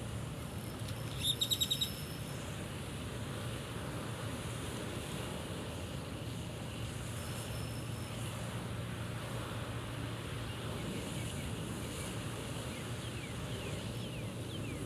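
Steady wind noise and outdoor rumble, with a quick run of about seven high bird chirps a second or so in and a few faint short bird whistles near the end.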